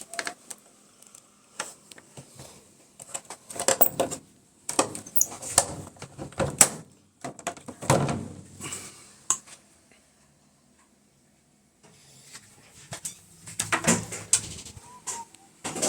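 Irregular knocks, clicks and clatters of parts being handled, with a silent pause about ten seconds in.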